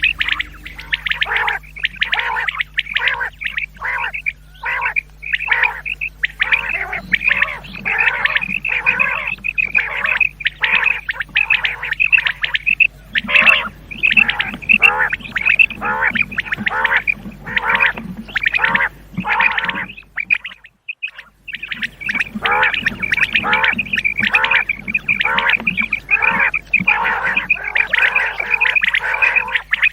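Common quail calling over and over in quick succession, about two sharp calls a second, with a break of about a second roughly two-thirds of the way through.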